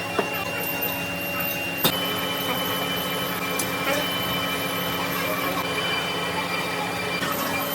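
Factory machinery running steadily, a low hum with a high, even whine over it, with one sharp metallic knock about two seconds in.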